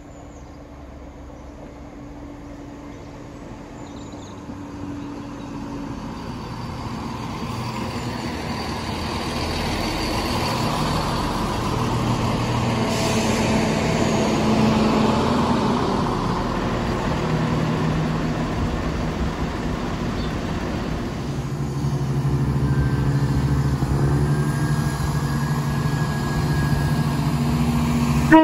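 A train approaching and passing, a low engine hum and rumble that grows steadily louder over the first dozen seconds, then stays loud, the engine note swelling again about three quarters of the way through.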